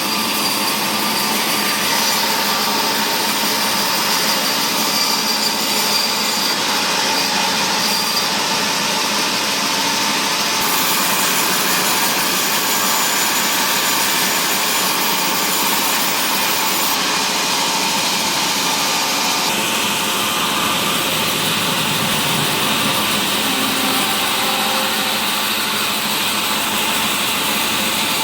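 Sawmill machinery running steadily while a saw cuts mahogany timber, a loud continuous noise whose upper hiss changes abruptly a few times.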